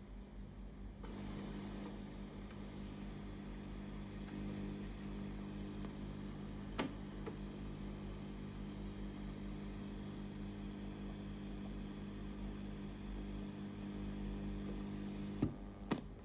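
Steady electrical mains hum that gets stronger about a second in and holds, with a sharp click about seven seconds in and two more clicks near the end.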